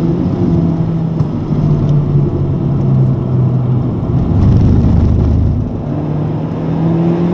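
Honda Civic Type R's 2.0-litre turbocharged four-cylinder heard from inside the cabin at track pace. The engine note falls as the car brakes and slows into a corner, then rises again near the end as it accelerates out. A low rumble lasts about a second midway.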